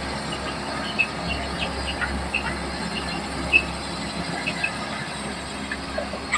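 Komatsu D31P crawler bulldozer running: a steady low engine drone with short high-pitched metallic squeaks and clicks scattered through it, the sharpest about a second in and about three and a half seconds in.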